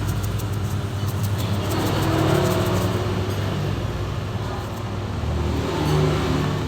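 A motor vehicle engine running, a steady low rumble that swells and eases off.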